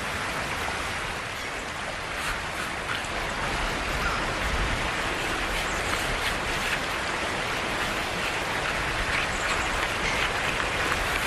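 Steady rushing of river water pouring over falls, an even noise with no break.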